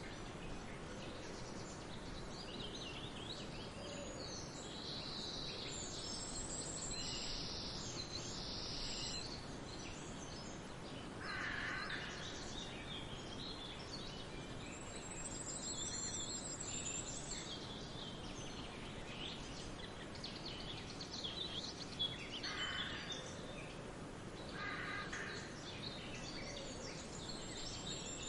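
Several birds chirping and trilling over a steady background hiss, with three louder, lower-pitched calls about a third of the way in and near the end.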